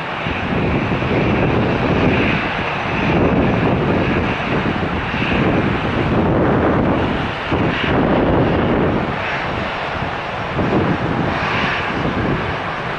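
Airbus A320-214 jet airliner's CFM56 turbofan engines at takeoff power, a loud, continuous jet noise that swells and eases every second or two.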